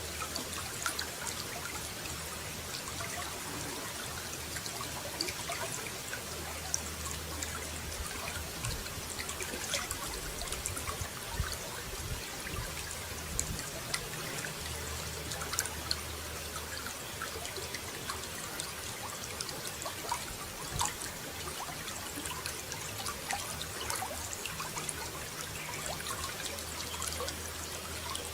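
Running water trickling and splashing steadily, full of small droplet ticks, with a low rumble that comes and goes.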